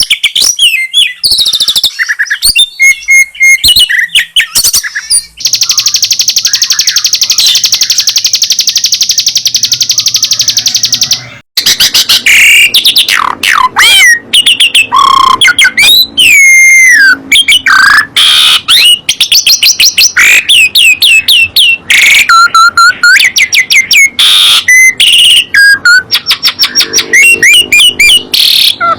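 Songbirds singing loudly and without pause: quick chirps, then a long fast buzzing trill held for several seconds, then varied whistled phrases that glide up and down.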